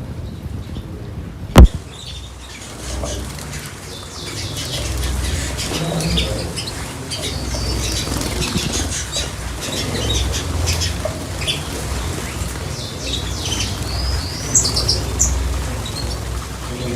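Small cage birds chirping and twittering in short high calls, with irregular wing flutters underneath. A single sharp click about a second and a half in.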